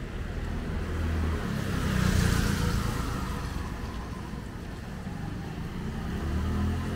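Street traffic: a motor vehicle passes, rising to its loudest about two seconds in and fading, over a steady low rumble, with another vehicle approaching near the end.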